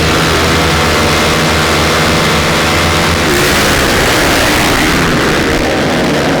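Motocross bike engines running hard on a race track, steady at first, then rougher from about halfway through.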